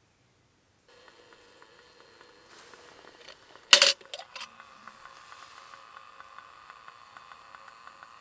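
A short, sharp clatter a little under four seconds in, followed by a few smaller clicks, over a faint steady hiss with fine ticking that carries on.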